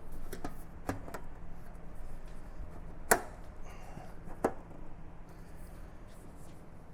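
Sharp taps and knocks of the wing's metal inner structure being handled and worked into the wing skin, a few light clicks early on, then two louder knocks about three and four and a half seconds in, over a low steady shop hum.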